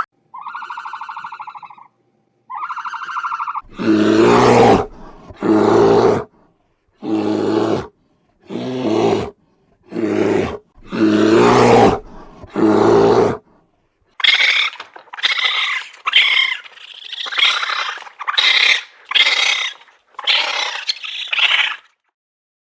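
A sequence of animal calls separated by silent gaps. Two short, high pitched calls come first, then seven loud, deep roars about a second and a half apart, then about ten short, higher calls in quick succession.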